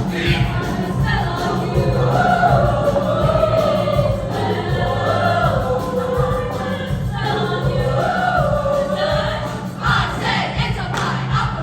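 A junior high girls' choir singing held notes that glide up and down in pitch, with a brief break about seven seconds in.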